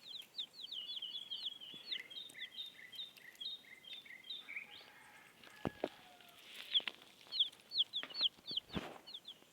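Baby chicks peeping: many quick, high-pitched chirps, each falling in pitch, with two sharp knocks, one about halfway through and one near the end.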